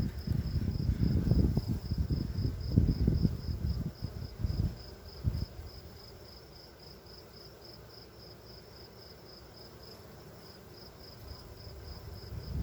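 High chirping at an even pace, about three chirps a second, typical of an insect. Low, irregular rumbling noise sits under it for roughly the first half and then dies away.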